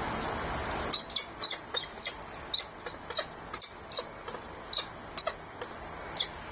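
A bird giving a quick series of short, high chirps, about two or three a second. A steady rushing noise stops about a second in, just as the chirps begin.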